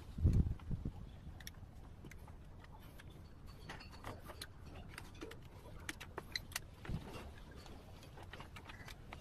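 Sparse, faint clicks and light taps, with one low thud just after the start.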